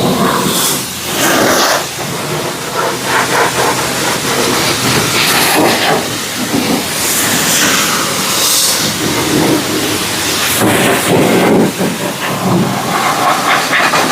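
Car-wash pressure wand spraying water onto a Japanese mini truck: a loud hiss that rises and falls as the spray moves over the body.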